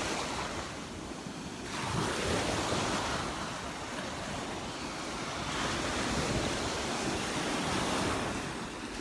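Gulf of Mexico surf washing onto the beach, swelling twice, with wind buffeting the microphone.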